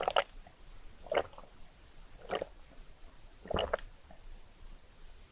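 A person chewing a mouthful of rice cake topped with ice cream and Nutella: four separate chewing sounds, a little over a second apart.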